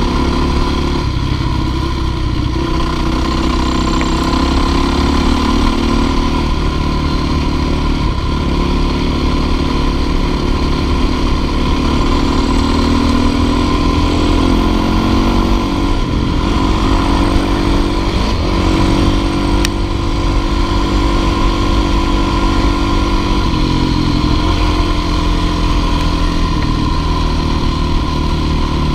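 Dirt bike engine running continuously under way, its pitch rising and falling a few times with the throttle.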